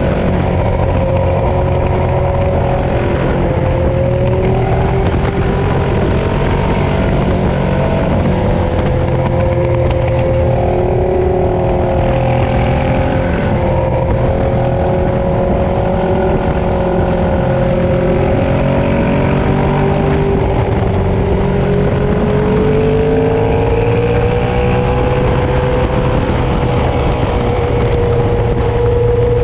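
Ducati Streetfighter 848's L-twin engine running under way at a steady cruise, its pitch wavering gently with small throttle changes and rising about twenty-two seconds in.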